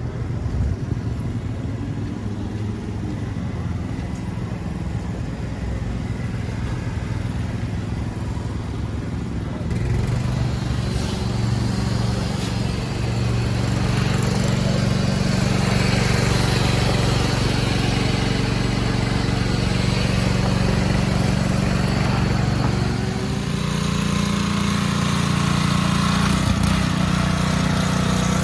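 An engine running steadily, getting louder about ten seconds in, with its note shifting a little near the end.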